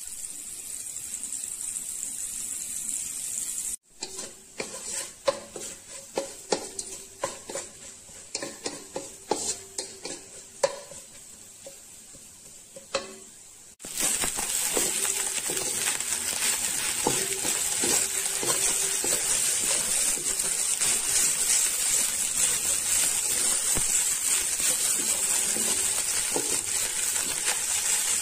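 Butter sizzling in a hot metal pan. After a cut comes a quieter stretch of irregular scrapes and taps against the pan; then, from about halfway, cooked rice frying in the garlic butter with a loud, steady sizzle while a wooden spatula stirs and scrapes it across the pan.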